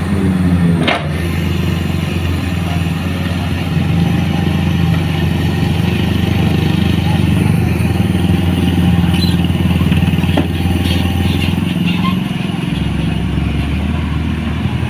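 A motor vehicle's engine running steadily and loud, with a low, even hum throughout.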